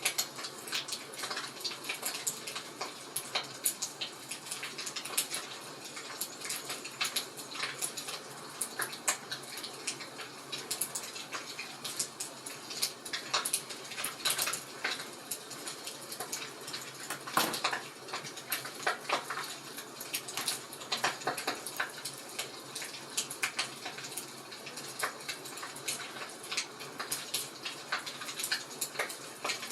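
Wood fire crackling in a fireplace: a steady low hiss with irregular sharp pops and cracks throughout, one louder crack a little past the middle.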